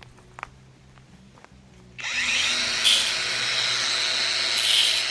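Quiet at first, then about two seconds in a cordless angle grinder starts up and grinds against a metal rod, turning harsher twice as the disc bites.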